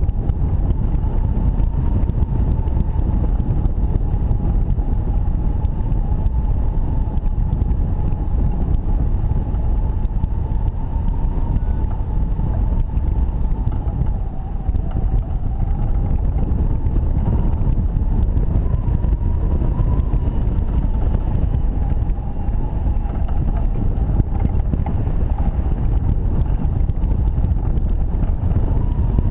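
Strong wind rushing over the microphone of a hang glider in flight: a loud, steady low buffeting, with a faint whistling tone that wavers a little in pitch.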